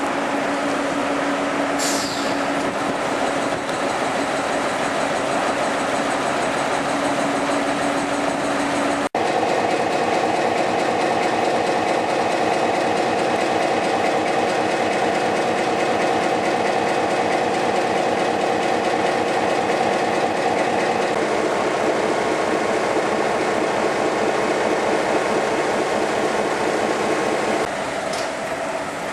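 Diesel-electric locomotive running, a GE U23B with its 12-cylinder FDL diesel, giving a steady loud engine drone. The sound cuts abruptly about a third of the way in and changes pitch again later on.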